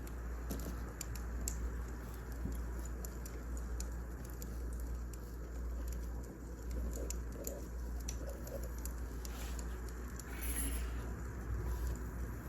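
Wood fire crackling, with scattered sharp pops over a steady low rumble and a brief hiss about ten seconds in.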